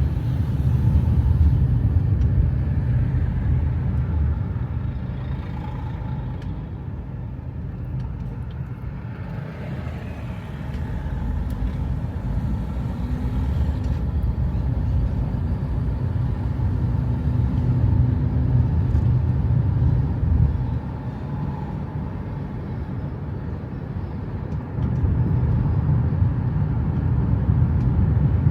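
Car driving, with a steady low engine and road rumble that eases off for a few seconds past the two-thirds mark and grows louder again near the end.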